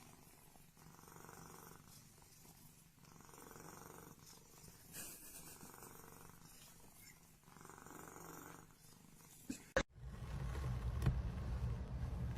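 A cat purring in slow, even cycles, each breath heard as a soft pulse about a second long. About ten seconds in there is a click, and a louder low rumble follows.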